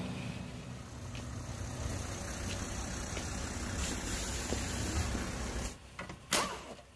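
Toyota FJ Cruiser's 4.0-litre V6 engine running at low speed, dying away about six seconds in; a single sharp knock follows just after.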